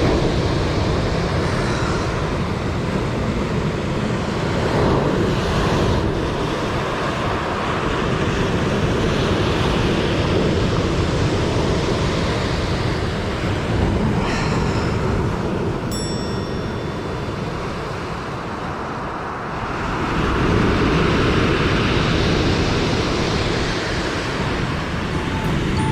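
Ocean surf breaking and washing on the beach, a steady rush of noise that swells and ebbs several times, with wind on the microphone.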